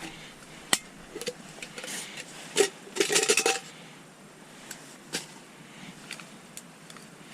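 Scattered knocks and clicks of hard objects being handled, with a short burst of clattering about three seconds in.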